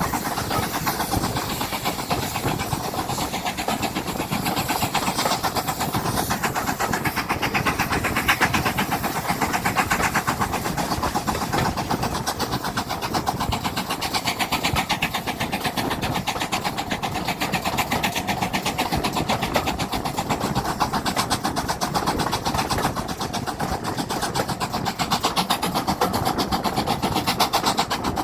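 A train running steadily, a continuous rumble with a fast, even pulsing.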